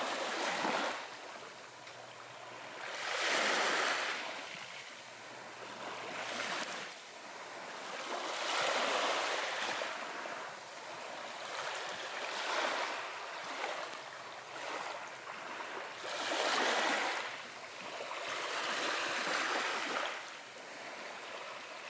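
Ocean waves washing in on a beach, a hiss that swells and fades in slow surges every few seconds.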